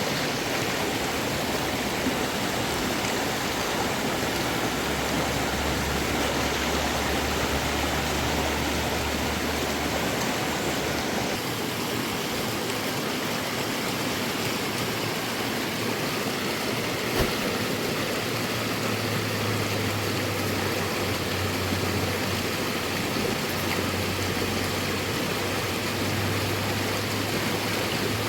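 Steady rushing of a fast river, an even wash of water noise with no let-up. A single sharp knock sounds about 17 seconds in.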